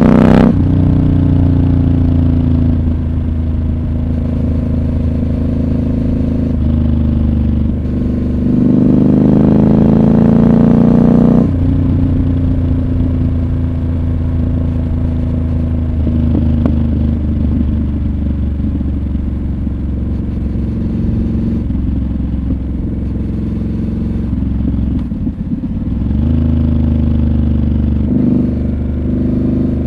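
Triumph Scrambler 1200 XC's 1200 cc parallel-twin engine under way, rising in pitch as the throttle opens and falling back as it eases off, several times over. The loudest, hardest pull comes about a third of the way in, with a dip and a fresh climb near the end.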